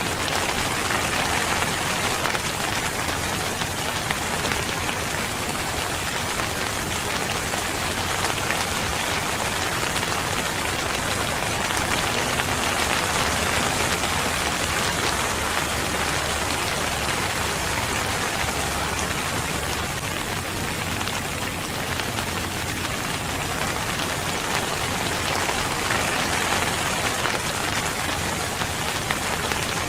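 Steady rainfall pattering on a surface, a dense even hiss of drops.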